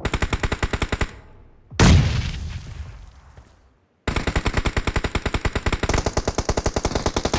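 Video-game automatic weapon fire: about a second of very rapid, evenly spaced shots, then one loud blast, the loudest moment, that dies away over about two seconds. After a short gap, sustained rapid fire resumes and keeps going.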